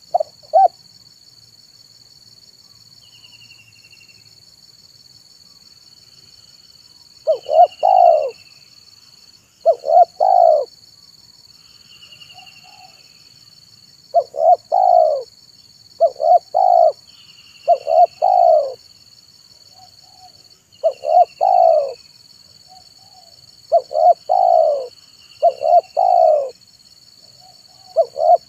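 Spotted dove (tekukur) cooing: a short call at the very start, then from about seven seconds in, repeated multi-note coo phrases roughly every two seconds. Faint short falling chirps sound every few seconds above the coos, over a steady high-pitched whine.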